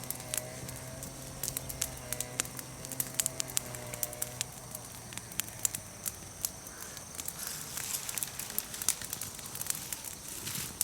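Bonfire of freshly fallen green chestnut-tree branches, leaves and twigs burning, crackling with many sharp, irregular pops.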